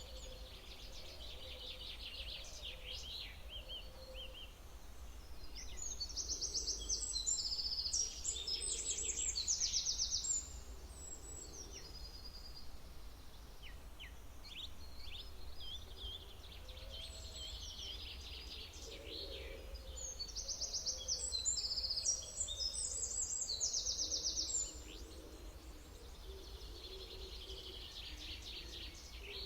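Songbirds singing in a forest chorus of chirps, with a loud, rapid trilling song about six seconds in and again about twenty seconds in. A low steady rumble sits under it.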